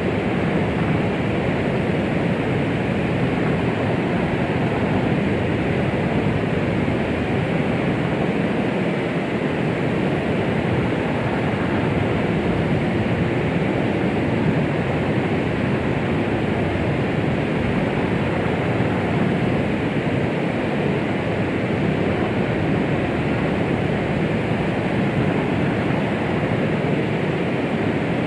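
Steady white noise of the 'womb sound' kind, a deep, even rushing hiss weighted toward the low end, continuous and unchanging.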